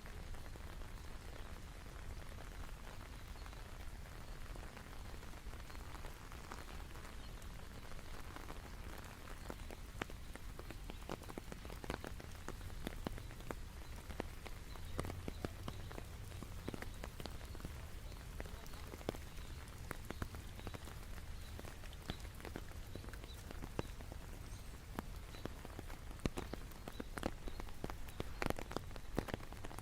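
Steady rain falling, with many separate drops ticking close by; the nearby drops grow more frequent and louder in the last few seconds.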